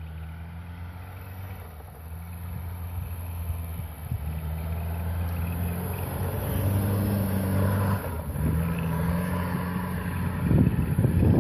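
Opel SUV engine driving on snow, growing louder as it comes closer, its revs rising and dipping a couple of times. Near the end wind buffets the microphone.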